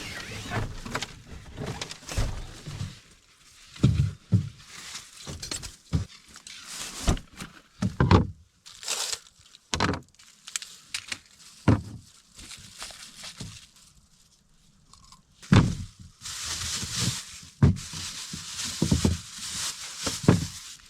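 A series of irregular thuds and knocks from objects being handled, with a stretch of rustling and crinkling near the end.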